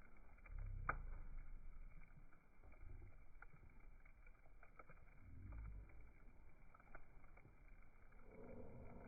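Quiet campfire with scattered sharp crackles, the loudest about a second in, and a few soft low rumbles.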